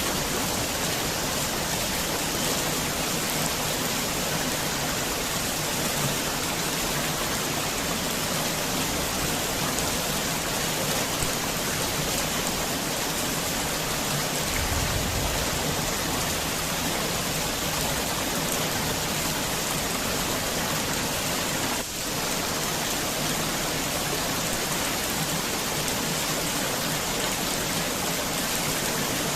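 Heavy rain falling steadily, a dense even hiss, with a brief low rumble about halfway through.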